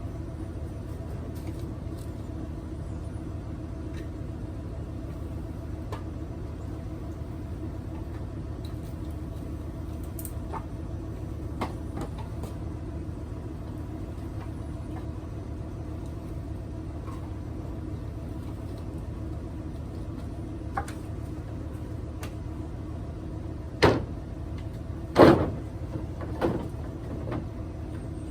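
A vehicle engine running steadily at idle, with three loud knocks near the end.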